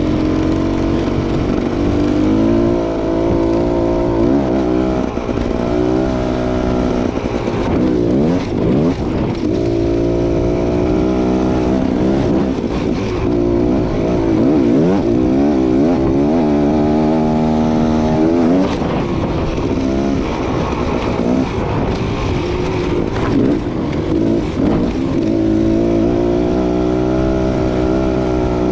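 Beta Xtrainer two-stroke enduro motorcycle engine running under throttle, its pitch climbing and dropping every few seconds, with a few quick rises and falls at about ten and nineteen seconds in.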